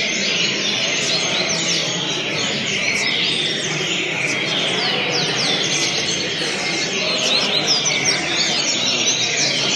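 Double-collared seedeater (coleirinho) singing: rapid, continuous phrases of quick, high, downward-sweeping chirps, with other chirping mixed in over a steady background noise.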